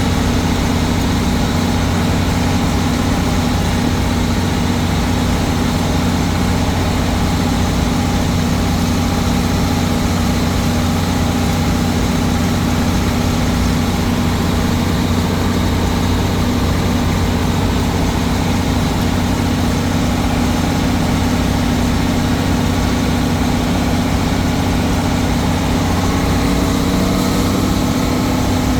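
Old Case tractor engine running at a steady speed while the tractor is driven, a loud, even engine drone that holds its pitch throughout.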